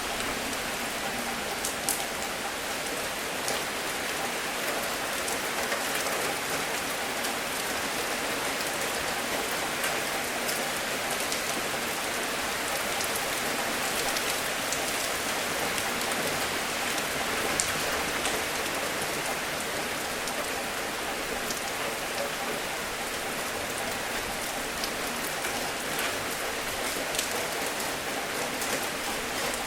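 Steady rain falling, with scattered sharp drops landing close by.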